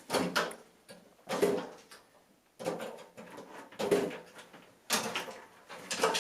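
A series of short knocks and clattering scrapes, about one a second, like hard objects being handled and shifted.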